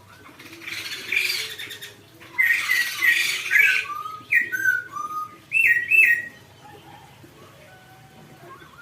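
Crested songbird calling: a couple of harsh, scratchy bursts, then a run of short clear whistled notes, some sliding down in pitch, before it falls quiet about six seconds in.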